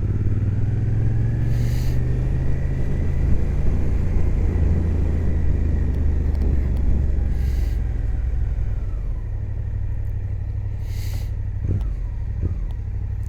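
Suzuki GSX-8S parallel-twin engine running steadily while riding, picked up by a microphone inside the rider's helmet, with a steady rumble of road and wind noise.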